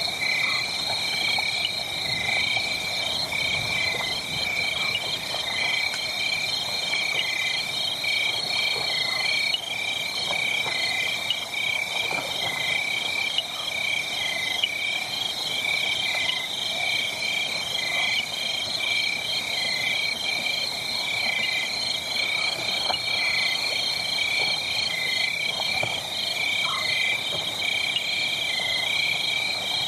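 Frogs and insects calling in a steady night chorus: high, rhythmically pulsing trills that run on without a break. Faint scattered crackles of a burning wood fire lie underneath.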